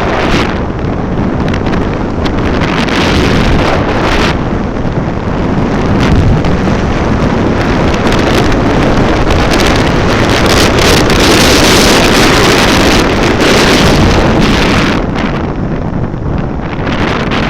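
Heavy wind rushing over the microphone while travelling at speed, with road and vehicle noise beneath; it swells to its loudest a little past the middle.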